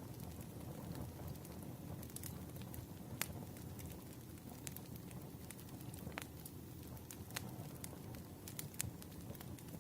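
Campfire crackling: a low, steady rush of burning wood with scattered sharp pops and snaps at irregular moments.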